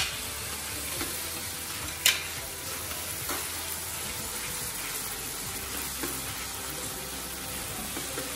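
Red chilli sauce sizzling in oil in a hot wok while a wooden spoon stirs and scrapes it. Two sharp knocks of the spoon against the wok stand out, one at the start and one about two seconds in, with fainter scrapes and taps between.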